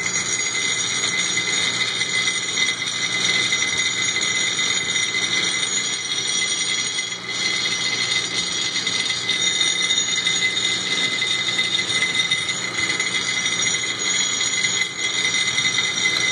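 Mini rock crusher running steadily, crushing charcoal: an even grinding noise with a high metallic whine over a low hum.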